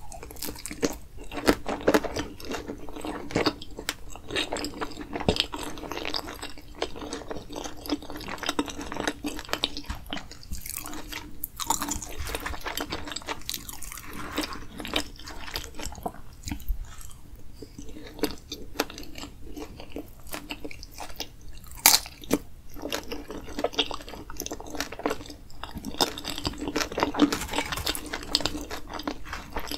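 Close-miked chewing of sauce-covered loaded fries: moist mouth sounds and small crunches in a steady run of clicks. One sharp click stands out a little past two-thirds of the way in.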